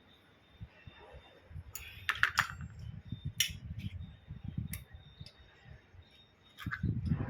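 Metal pump parts clinking and knocking together as they are handled: a few sharp clinks, a quick cluster about two seconds in and single ones later, over low rustling and handling noise.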